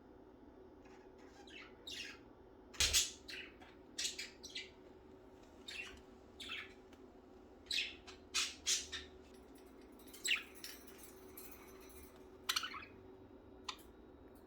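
Pet budgerigars chirping and squawking in short, scattered calls, over a faint steady hum.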